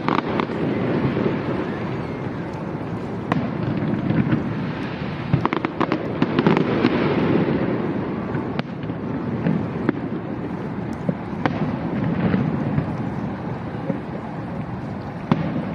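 Fireworks display going off: a continuous rumble of shell bursts with sharp bangs and crackles scattered through it, a thick cluster of them about a third of the way in.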